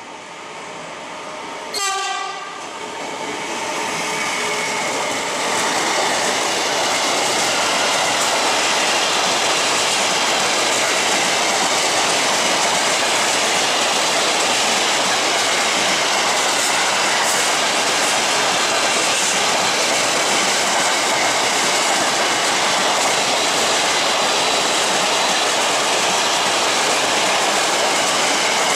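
An electric locomotive sounds one short horn blast about two seconds in. Then the steady noise of a long intermodal freight train of container wagons passing at speed takes over, wheels running on the rails.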